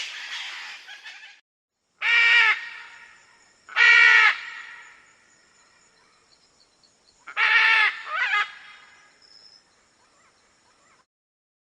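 A bird giving loud, harsh calls, four in all and each about half a second long, with a fading tail after each.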